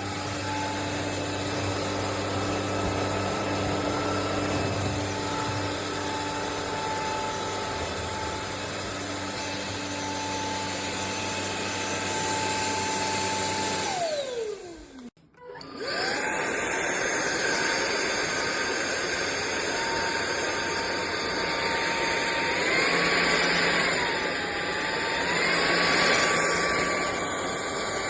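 Sulean X8 cordless stick vacuum's motor spinning up and running with a steady whine. About halfway through it is switched off, and its pitch falls as it winds down. It starts again a second later, its pitch wavers up and down, then settles at a higher whine near the end.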